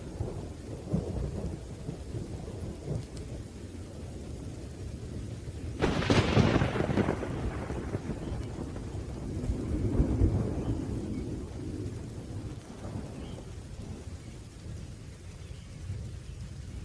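Thunderstorm: low rolling thunder over steady rain, with a sharp thunderclap about six seconds in that rumbles away over the next several seconds.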